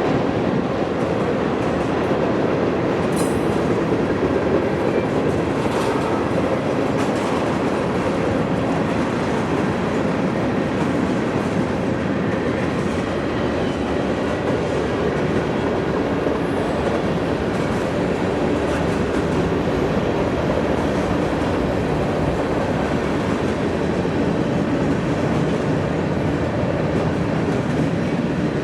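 Freight train cars rolling past on the rails: a steady rolling noise with a few faint clicks.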